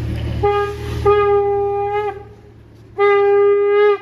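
Conch shell (shankh) blown in held blasts, steady in pitch and dipping slightly as each ends: one brief blast, then two of about a second each.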